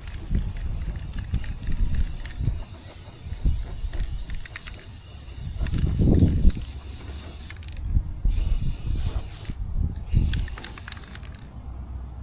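Aerosol spray paint can hissing steadily for several seconds, then in two short bursts before it stops, over the low rumble of wind on the microphone.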